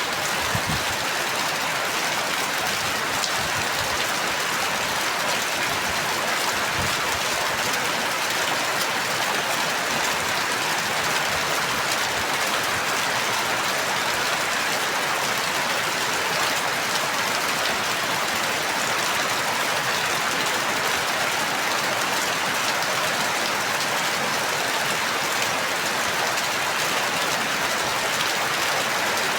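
Steady, heavy rain falling and pattering on a surface, with a few dull low knocks in the first seconds.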